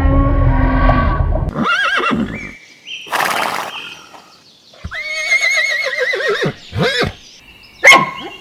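Horse neighing: several short whinnies and one longer, quavering neigh, with a short breathy burst between them. A different low, droning animal call fades out in the first second and a half.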